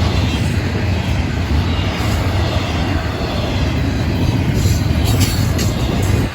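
Florida East Coast Railway freight train rolling past: a steady low rumble of steel wheels on the rails, with a few sharp clacks about five seconds in. The rumble drops suddenly right at the end.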